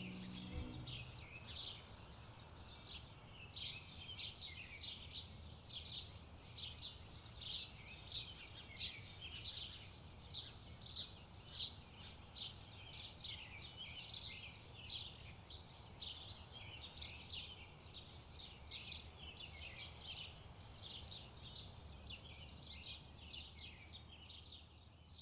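Small birds chirping: a steady, dense run of short, high calls, several a second, over a faint low rumble.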